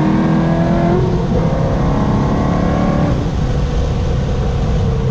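Corvette C6 Z06's 7.0-litre LS7 V8 under hard acceleration, its pitch climbing with the revs. There is a short dip about a second in, like a gear change, then it climbs again, and about three seconds in the rising note drops away to a lower, rougher running sound.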